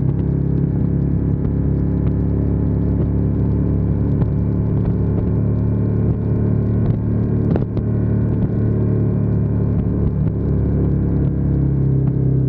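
Ducati Diavel 1260S's Testastretta V-twin engine running steadily, picked up by a camera mounted on the back of the bike.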